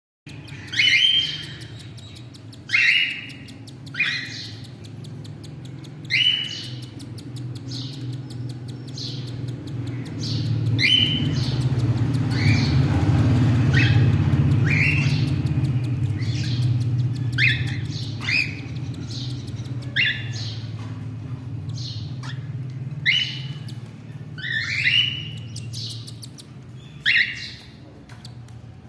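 Cockatiel chick's begging calls while an adult male cockatiel feeds it: short chirping squawks every second or two. A steady low hum runs underneath and swells in the middle.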